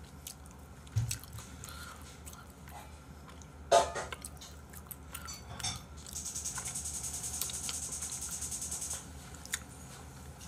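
Eating sounds close to the microphone: chewing, with a low thump about a second in and a short throat or mouth noise near the middle. After that comes about three seconds of a steady, finely pulsing high hiss.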